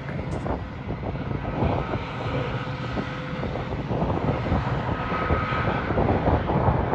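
A train passing close by: a steady loud rumble with many irregular clicks and a faint high whine.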